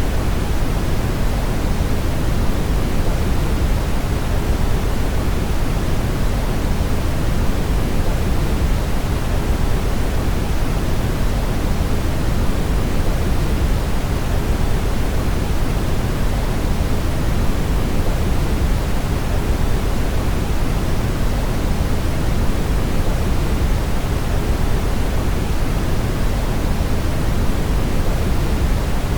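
Brown noise: a steady, unchanging deep rushing hiss, heaviest in the low end and thinning toward the top.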